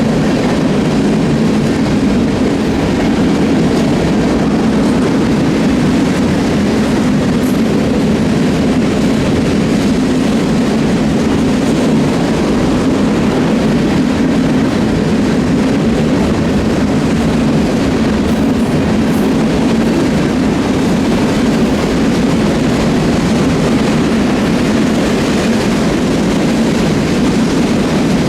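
Freight train rolling past on the BNSF line, a steady, loud rumble of wheels on rail.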